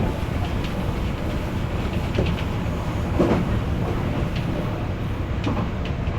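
An Odakyu Enoshima Line electric commuter train running along the track, heard from the front of the train: a steady rumble with irregular clicks of the wheels over rail joints, and a brief louder swell about three seconds in.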